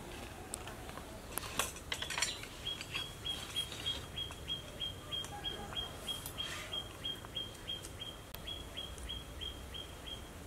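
A bird repeating a short, high chirp at one pitch, about four times a second, starting about three seconds in. A few light clicks of spoons on plates come in between.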